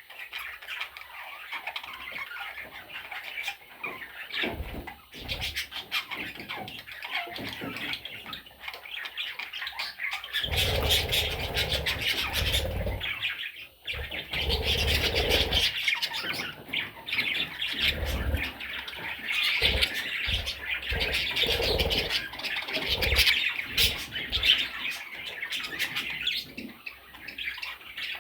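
Pet budgerigars chattering and squawking continuously, with low bumping noises joining from about ten seconds in.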